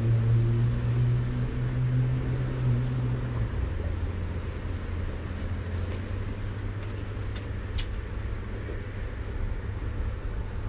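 A motor vehicle engine running with a steady low hum that fades away about three seconds in, over a steady low rush of traffic and wind noise. A few faint ticks come through near the middle.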